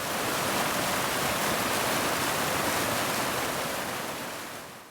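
Water of a waterfall rushing steadily, fading out over the last second.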